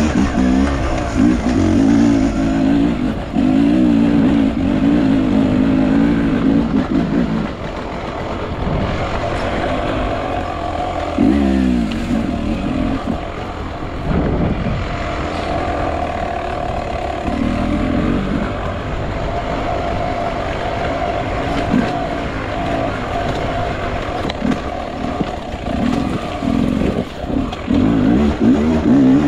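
Enduro motorcycle engine revving up and down under load. It revs hard for the first several seconds, runs lower and steadier through the middle with short bursts of throttle, and revs hard again near the end.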